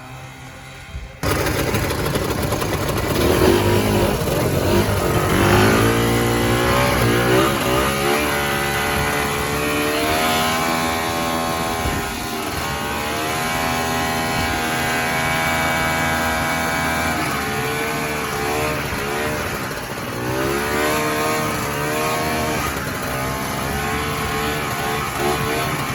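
Vintage snowmobile's two-stroke engine running, starting in suddenly about a second in and then revving up and down, its pitch rising and falling several times.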